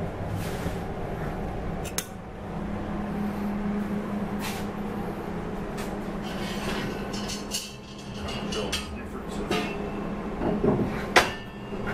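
Steel welding-table plates clinking and clattering as they are handled, with a few sharp metal clanks; the loudest comes near the end. A steady low hum runs underneath.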